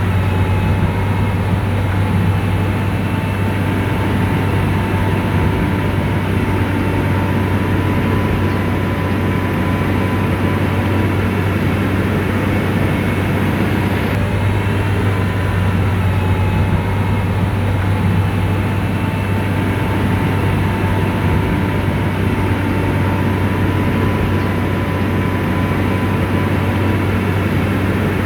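SDLG motor grader's diesel engine running steadily under load, a constant deep drone with a faint steady whine over it.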